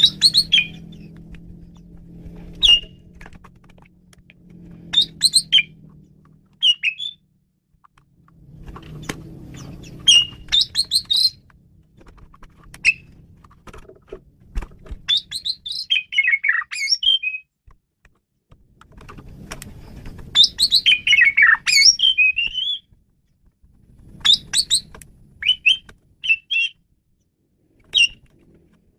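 Male Asian pied starling singing in short, varied phrases of chirps, whistles and harsh notes, with pauses between phrases; the longest, busiest phrase comes about two-thirds of the way through.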